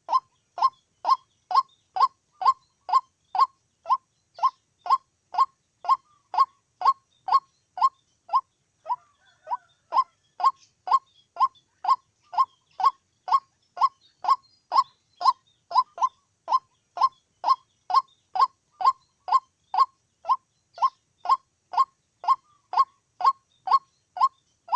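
White-breasted waterhen (chim cuốc) calling: a long, monotonous series of short, honking notes, about two a second, with a couple of brief breaks in the rhythm.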